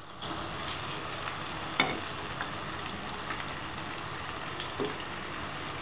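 Chicken Swiss rolls deep-frying in hot oil in a pan: steady sizzling that gets louder just after the start, with a couple of sharp clicks.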